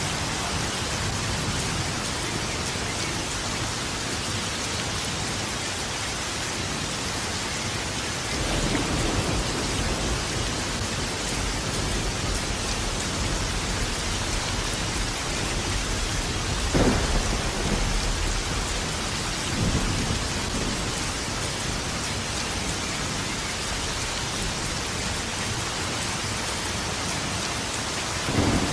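Steady rain falling, with thunder: a low rumble swells about a third of the way in, a sharper thunderclap comes a little past halfway followed by another a few seconds later, and a further clap lands right at the end.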